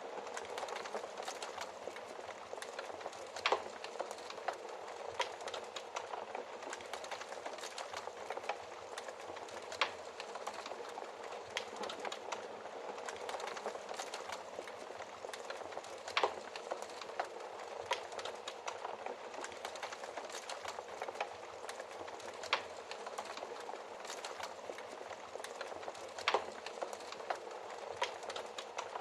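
Wood fire crackling: a steady hiss with frequent small irregular pops and a few louder snaps every several seconds.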